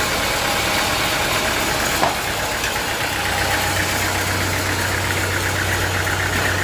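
Sawmill engine running steadily, with a single short knock about two seconds in.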